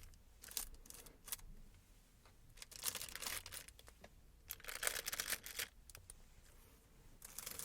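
Hand smoothing out wrinkles in crinkly packaging: a series of rustling strokes, two short ones near the start and longer ones about three and five seconds in and again near the end.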